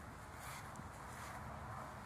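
Steady outdoor garden ambience: an even background hum with no distinct event standing out.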